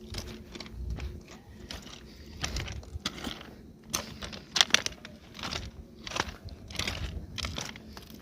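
Footsteps crunching at a walking pace, with a couple of sharper clicks a little past halfway.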